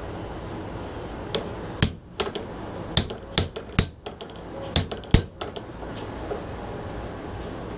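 Hammer blows on a metal punch against a ceiling fan part clamped in a vise: about eight sharp, ringing metallic strikes in loose groups of two or three, stopping a little past the middle.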